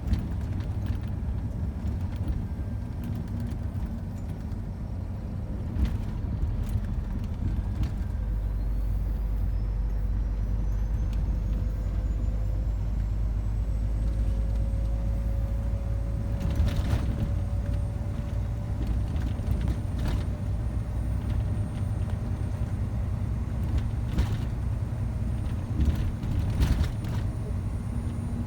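Scania lorry driving along, its diesel engine running with a steady low drone. A faint whine rises in pitch about a third of the way in, then levels off. A handful of sharp knocks and rattles are scattered through it.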